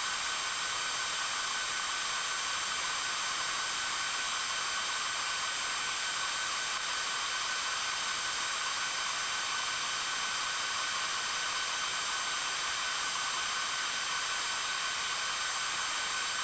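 A steady high-pitched hiss with faint whistling tones in it and nothing deep, starting and stopping abruptly.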